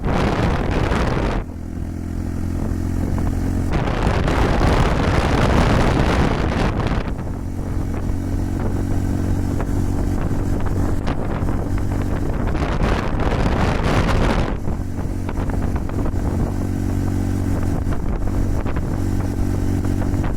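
Honda Super Cub 110's single-cylinder four-stroke engine running steadily at cruising speed, with wind buffeting the microphone. Loud gusts of wind noise swamp the engine at the start and again from about four to seven seconds in.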